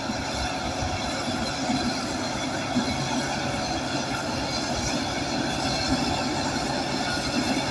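Bulldozer's diesel engine running steadily while it pushes soil.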